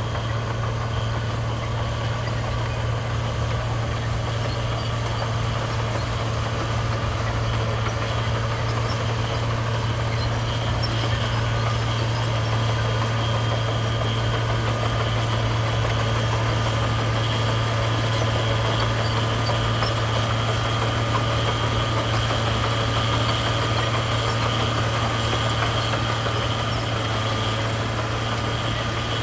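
Heavy diesel engine of road-building machinery running steadily at an unchanging speed, with a constant low hum.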